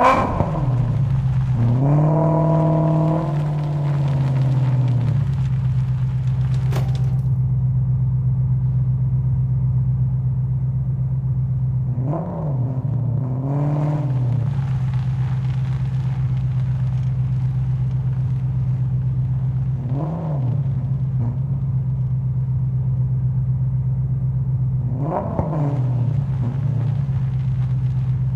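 Muscle car engine idling with a deep, steady rumble, revved briefly several times: a longer rev a couple of seconds in, a double blip near the middle, and single blips later on.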